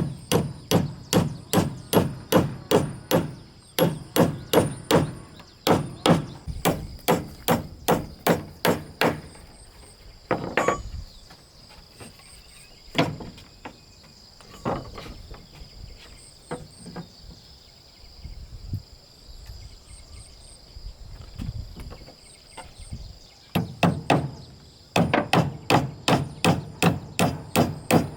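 Rapid hammer blows on wood, about three a second, in long runs with a stretch of slower, scattered knocks in the middle. A steady high insect drone runs underneath.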